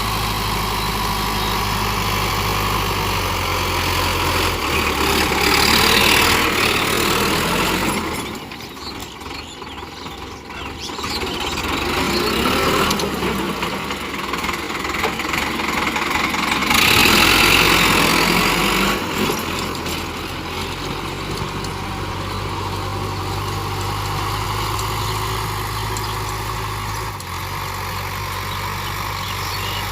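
Tractor engine running steadily. Its sound swells about six seconds in and again about seventeen seconds in, and drops quieter for a few seconds between the two.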